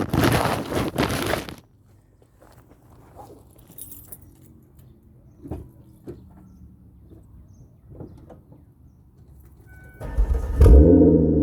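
A loud rustle, then quiet with scattered small clicks like keys being handled. Near the end a 2004 Mercury Sable's V6 cranks over briefly on the starter, catches, and settles into a loud, steady cold-start idle through its aftermarket exhaust.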